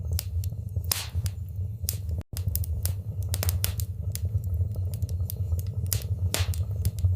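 Wood fire burning in a fireplace: irregular sharp crackles and pops over a steady low rumble of the flames. The sound drops out for a split second about two seconds in.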